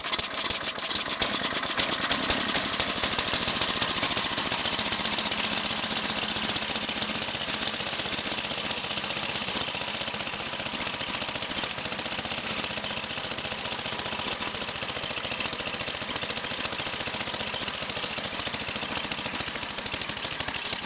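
Big gas snowblower engine running steadily on a cold start, the throttle set a little below full, after needing extra priming to catch.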